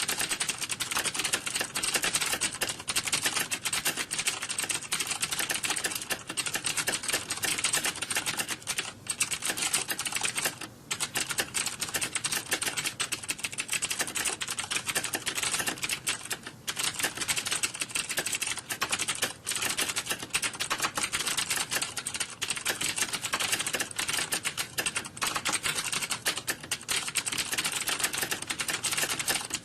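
Computer keyboard typing: a dense, continuous clatter of keystrokes that dips briefly twice near the middle.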